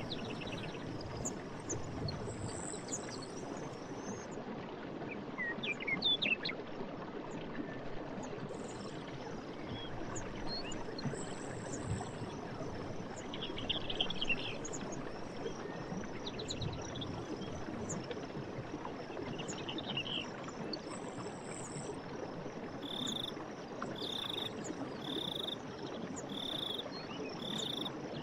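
Steady rush of running stream water with birds singing over it: scattered short chirps and trills, and near the end one bird repeating a short call five times, about once a second.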